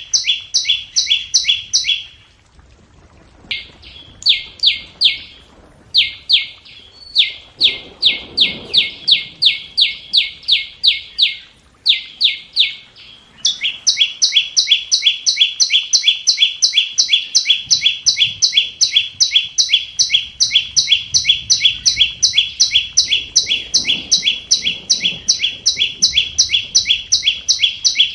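Flowerpecker calling: a rapid series of sharp, high ticking notes, about four to five a second, breaking off briefly twice in the first half and then running on without a pause.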